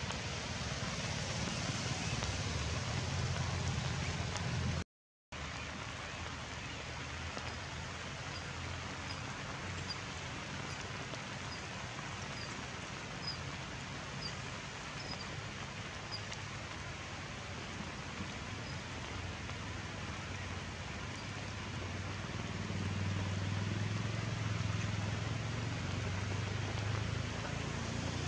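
Steady rain falling on forest foliage, an even hiss, with a faint series of short high chirps partway through. The sound cuts out for about half a second around five seconds in, and a low rumble swells near the end.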